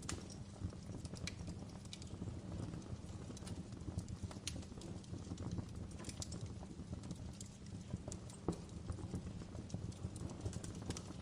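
Wood fire crackling in a fireplace: irregular sharp pops and snaps over a steady low rumble of burning, with one louder pop about eight and a half seconds in.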